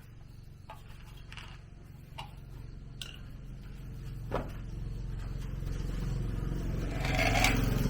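A small engine running at a steady pitch and growing steadily louder, with a few light clicks and a sharper knock about four seconds in.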